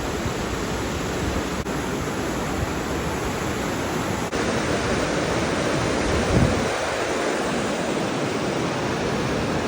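River rushing steadily, running high with snowmelt.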